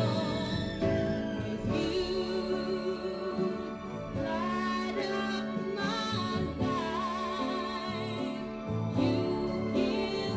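Music with a singing voice held in long notes with vibrato, played from a vinyl record through a Yamaha CR-820 stereo receiver.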